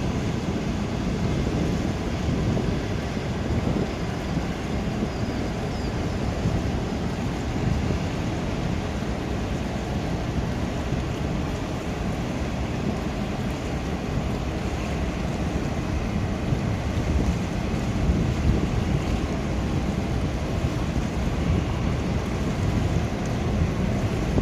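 Steady wind noise buffeting the microphone over a continuous low rumble, with no distinct events.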